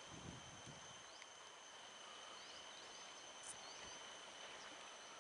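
Faint outdoor ambience: a steady high-pitched drone with short rising chirps repeating every second or so, typical of animal calls.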